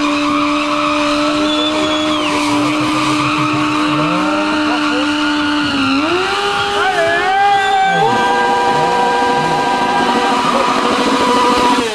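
Sportbike engine held at high revs for a burnout, holding one steady pitch, then climbing in two steps about six and eight seconds in as the rear tyre spins and smokes, with tyre squeal under it.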